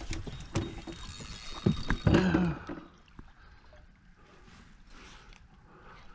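Fishing gear and boat noise while a hooked queenfish runs on light line: knocks and clatter against a small boat and a steady high whine for about two seconds. After about three seconds it goes quieter, with soft swishes repeating about twice a second.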